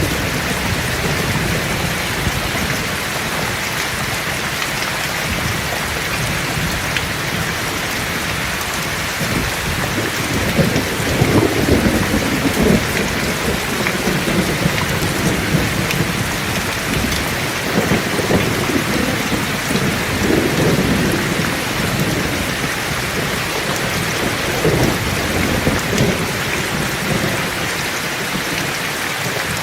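Heavy rain falling steadily, with rolling thunder rumbling up about a third of the way in and again in a couple of weaker rolls later on.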